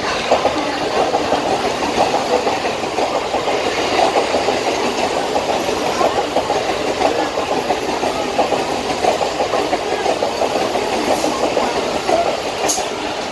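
Western Railway Bombardier electric multiple-unit fast local train running through a station at speed without stopping, its wheels making a steady, rapid clatter over the track.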